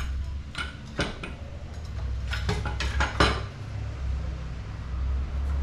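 Metal strut top-mount parts clinking together as they are handled and fitted, about six sharp clinks in the first three and a half seconds, over a steady low hum.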